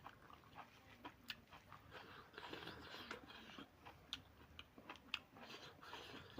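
Faint, close-up eating sounds: chewing with irregular small mouth clicks and smacks.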